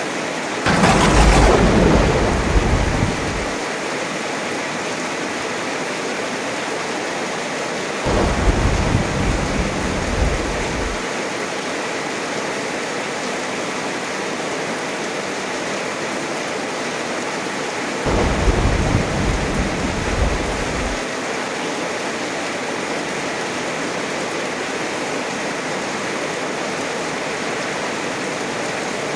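Heavy rain falling steadily, with three rolls of thunder, each about three seconds long: the first, near the start, sharper and reaching higher in pitch, then two deeper rumbles about eight and eighteen seconds in.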